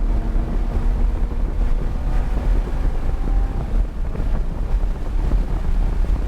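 Lamborghini Huracán's V10 engine and road noise heard from inside the cabin at track speed, under a heavy low rumble of wind buffeting the microphone.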